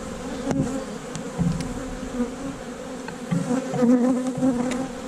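Honey bees buzzing in a steady, dense hum around an open hive during inspection, the sound of a large, very active colony. A few light clicks sound over the hum.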